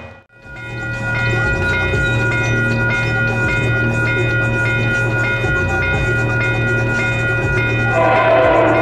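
Diesel locomotive hauling a passenger train, approaching with a steady engine rumble over a ringing that repeats about twice a second; the sound swells louder in the last second.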